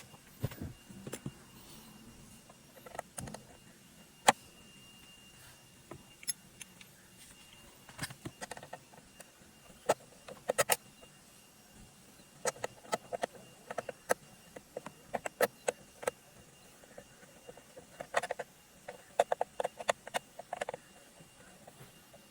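Scattered sharp clicks, taps and light metallic clatter of small tools and parts being handled during hands-on repair work, some coming in quick clusters of several clicks.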